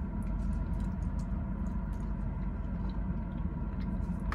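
Quiet chewing of a mouthful of pasta close to the microphone, small scattered mouth clicks over a steady low hum inside the car.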